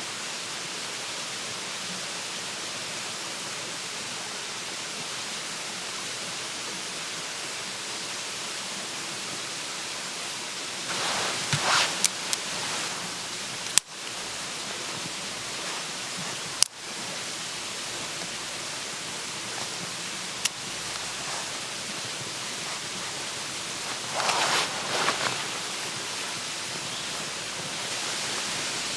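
Steady rushing of flowing water. Two short spells of louder rustling noise come on top of it, about eleven seconds in and again about twenty-four seconds in, along with a couple of sharp clicks.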